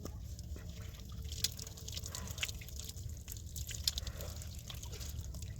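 Water dripping and trickling in small scattered clicks over a steady low rumble.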